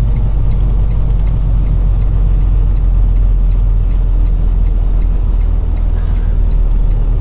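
Semi-truck diesel engine running, heard from inside the cab, with the turn signal ticking steadily.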